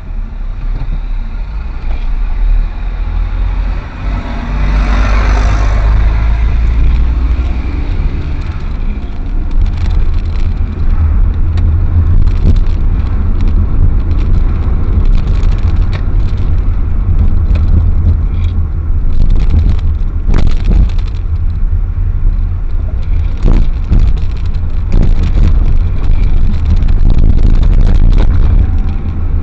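A car driving through town: a loud, steady low rumble of engine and road noise, with a louder rushing swell about five seconds in and scattered short knocks and clicks over the rest.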